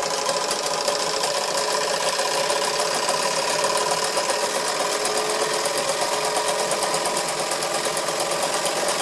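Wilesco D141 model steam engine running fast and steady under steam, with a rapid, even beat and steady whirring tones from its belt-driven workshop tools.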